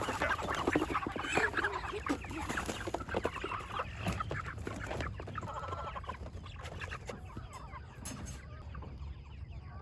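A crowded flock of meat chickens (broilers) clucking and squawking, dense at first and thinning toward the end, with scattered knocks and a steady low rumble underneath.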